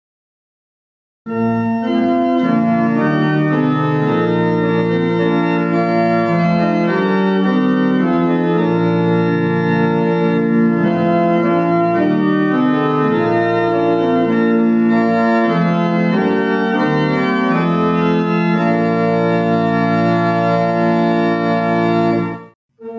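Organ playing a slow passage of held chords that change step by step, starting about a second in and stopping just before the end.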